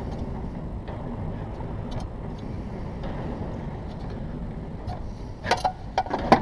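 Steady low rumble of background noise with a few faint scattered ticks. Near the end come a few sharp clicks or knocks.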